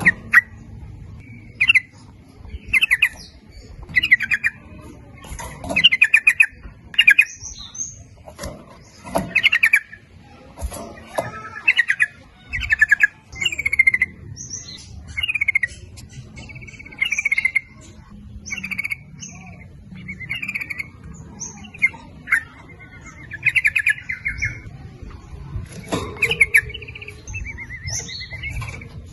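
Yellow-vented bulbul (trucukan) calling: short bubbling, chattering phrases repeated about once every second or two.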